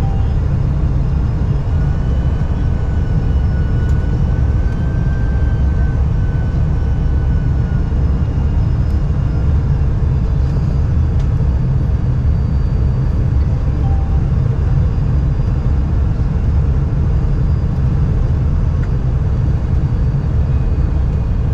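Steady, loud low rumble of a moving vehicle heard from inside, with a faint high whine over it.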